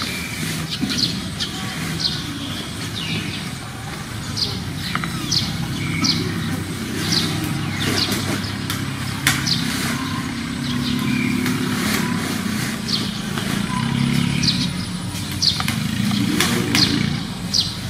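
Short, high bird chirps repeating one or two times a second over a steady low engine hum.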